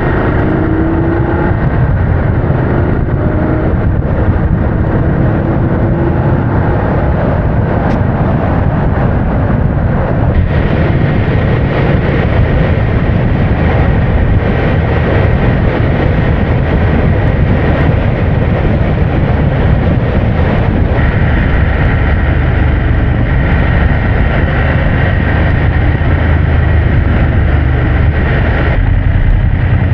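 Motorcycle riding along a road: steady engine and tyre noise with wind rushing over the microphone, the tone of the ride shifting a couple of times.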